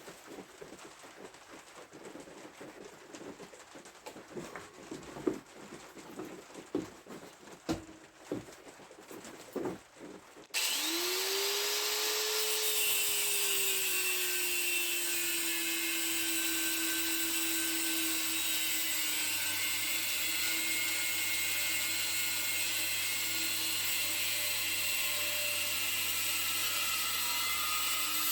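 Scattered knocks and clicks of steel pieces being handled, then about ten seconds in an electric power tool starts abruptly, its motor pitch rising and settling, and cuts steel rod with a steady loud hiss.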